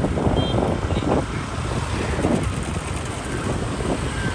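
Motorbike traffic heard from a moving motorbike: a steady rumble of small engines and road noise.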